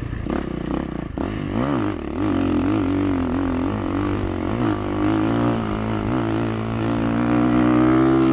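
Motocross dirt bike engine revving up and down as the throttle is worked, its pitch wavering repeatedly, then climbing steadily over the last couple of seconds.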